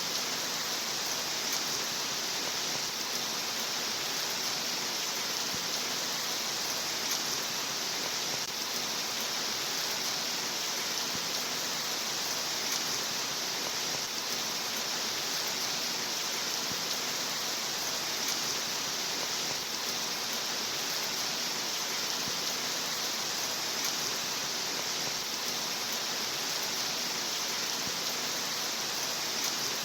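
Steady rain sound, an even hiss with no separate drops, thunder or changes.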